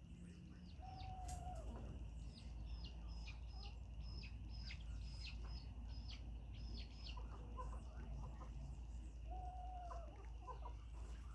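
Chickens calling: a hen gives a drawn-out note twice, about a second in and again near the end. Between them, from about two and a half to seven seconds, comes a quick run of high, falling chirps, under a steady low hum.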